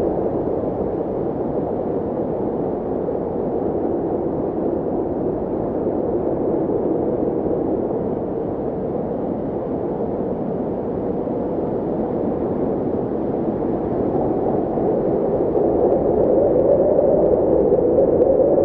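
Steady, muffled rushing noise like a dull hiss, with no clear pitch, growing slightly louder near the end.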